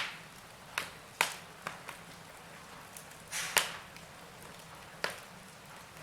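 Wood fire burning in a fireplace: sharp pops and crackles from the burning logs every second or so, the loudest near the start and about three and a half seconds in, over a faint steady hiss of flame.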